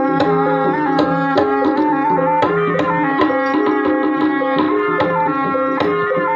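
Javanese gamelan music accompanying an ebeg dance: hand-played kendang drum strokes in a quick rhythm over held, ringing pitched tones.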